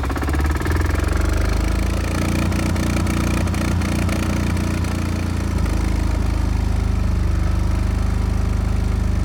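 Diesel engine of an MEP-831A tactical generator running just after a cold start from preheat. About five and a half seconds in its note changes and settles into a steady, even run as the new digital governor control holds it at speed.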